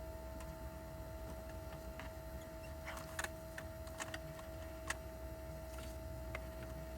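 Smoke leak detector machine running with a steady hum during a vacuum-leak smoke test, with a few light clicks and taps from around two seconds in.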